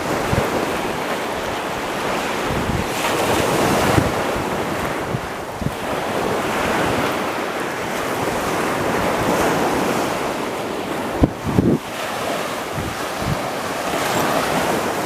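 Surf washing onto a Gulf of Mexico beach, with wind buffeting the microphone; a couple of harder gusts thump on it about eleven seconds in.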